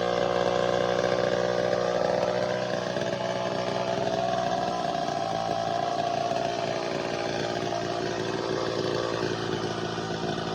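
Early-1970s Craftsman 2.3 two-stroke chainsaw, a Poulan-built powerhead fitted with no chain, running steadily. Its engine pitch wanders slightly. It is running again after carburetor tuning.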